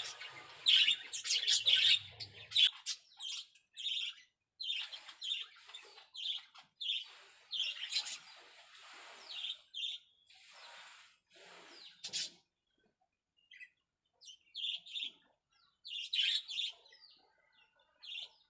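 Zebra finches calling: many short chirps in quick succession, thinning out after about twelve seconds, with a brief lull before a few more calls near the end.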